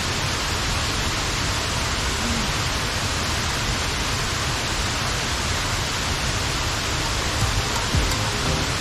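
Waterfall rushing steadily, an even hiss with no change.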